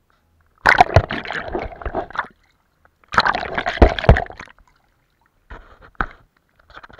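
Paintbrush swished and tapped in a jar of rinse water: two loud bursts of sloshing and splashing, then a few quieter taps and scrapes.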